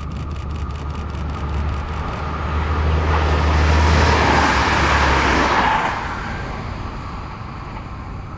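Red TER Occitanie diesel multiple unit passing close by: a steady low engine hum as it approaches, growing to its loudest as the train goes past about four seconds in, then fading as it moves away.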